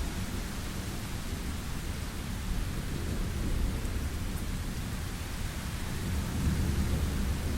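Thunderstorm: steady rain hiss under low rolling thunder that swells twice, about a third of the way in and again near the end.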